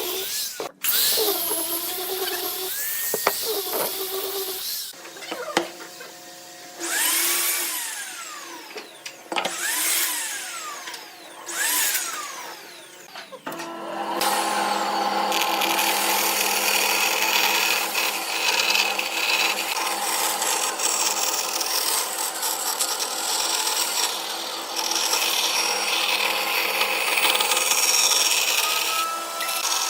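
Woodworking power tools working wood. A motor whines up and down in pitch several times in the first half, then from about halfway a machine runs steadily with cutting noise.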